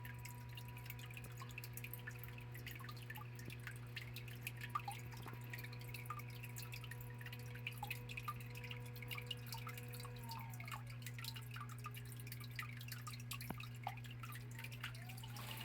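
Water dripping and trickling down a small biotope waterfall, many small drops falling in an irregular patter over a steady low hum.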